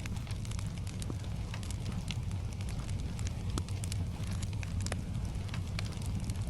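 Wood fire crackling: frequent sharp, irregular pops and snaps over a steady low rumble.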